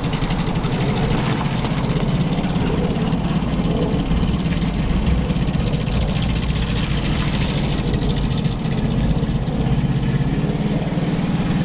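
Vintage 4x4's engine running steadily as the vehicle drives across the ice, its rapid firing pulse even throughout.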